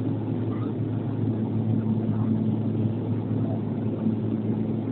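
Steady drone of an Antonov An-140's turboprop engines and propellers, a low hum with an overtone holding an even pitch.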